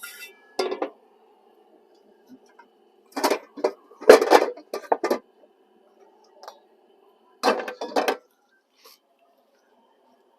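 Cookware and camp gear clattering and knocking in short bursts as a pan is searched out and handled, loudest from about three to five seconds in and again near eight seconds.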